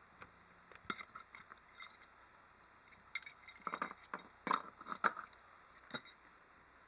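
Light metallic clicks and clinks of hand tools and wiring hardware being handled, in scattered clusters with the loudest around the middle.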